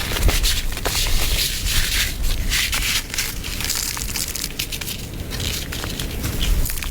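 Footsteps crunching through snow, with wind rumbling on the microphone.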